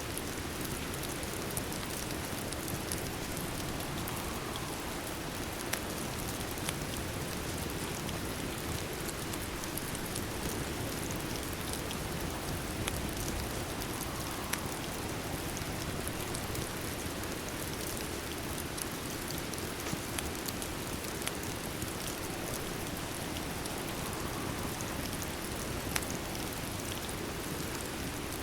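Steady rain, a constant even rush with scattered sharp ticks and pops throughout.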